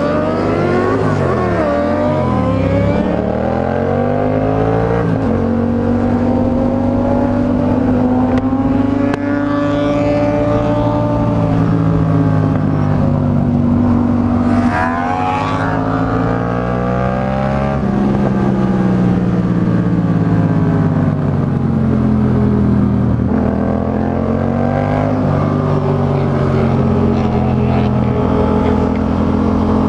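Motorcycle engines running on the move, their pitch rising and falling with throttle and gear changes; in the first few seconds two engine pitches cross each other.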